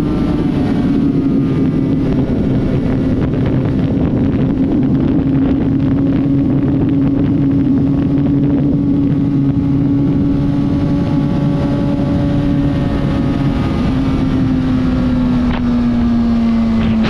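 Honda CBR600RR inline-four engine running at steady revs while riding, its pitch easing down a little near the end, with wind noise on the camera microphone.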